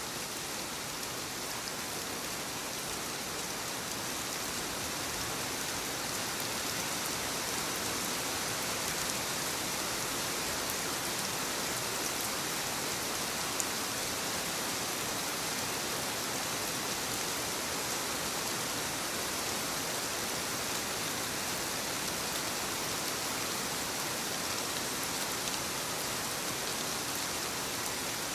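Steady soft rain falling on leaves: an even patter of raindrops with faint individual drop ticks.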